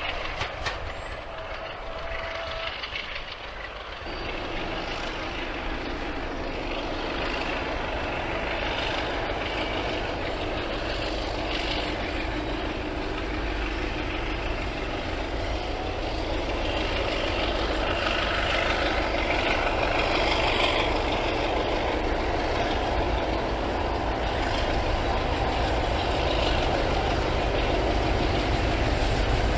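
Diesel locomotive engine running, growing gradually louder.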